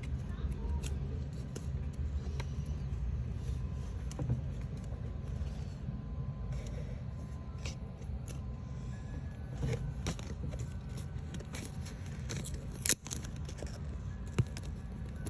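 Scattered small clicks and scrapes from handling and fitting craft pieces punched from diorama sheets, over a steady low background hum. A sharper click comes about 13 seconds in and another near the end.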